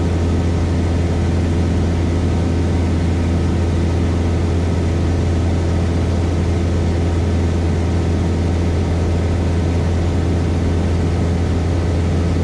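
Cessna 172S Skyhawk's four-cylinder Lycoming engine and propeller in cruise, a steady loud drone with a deep hum and several even steady tones above it, heard in the cabin.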